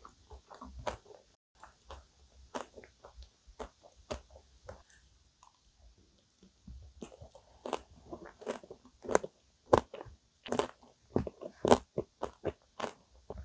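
Close-miked chewing of a mouthful of chocolate-coated vanilla ice cream cake, with short sharp crunchy clicks. The crunching grows louder and denser about halfway through.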